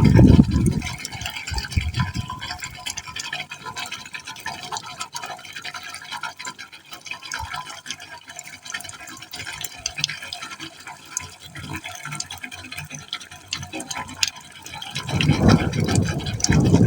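Water falling into a pipe hole: a steady splashing with many small drip-like ticks, swelling into louder, deeper surges at the start and again over the last couple of seconds.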